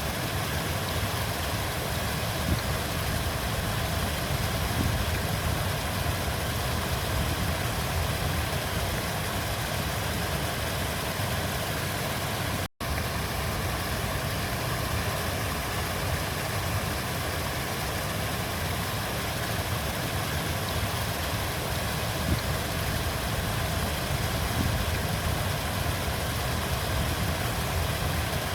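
River water flowing, a steady rushing noise heaviest in the low end, broken by a split-second dropout about halfway through.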